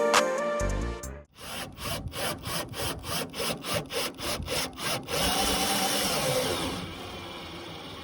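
Background music ends about a second in. A power tool follows: a quick series of strokes about four a second, then a steady run whose pitch dips and rises, stopping about seven seconds in.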